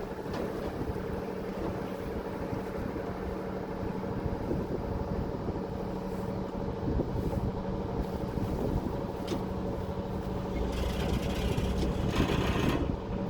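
Passenger ferry's engine running with a steady drone. A rush of hissing noise swells in about two seconds before the end.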